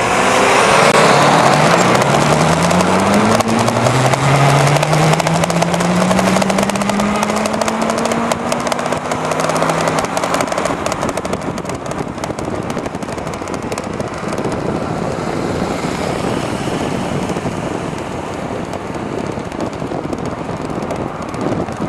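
Wind buffeting and crackling on the microphone with road rattle from a moving e-bike. A low hum rises slowly in pitch over the first ten seconds, then fades into the steady rush of wind.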